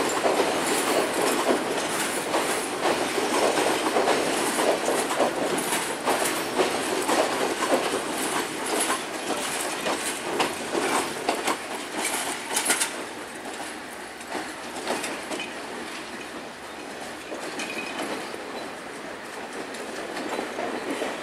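A train passing close by, its wheels clacking over the rail joints in a quick, irregular clatter; a little past halfway the clatter eases and grows quieter.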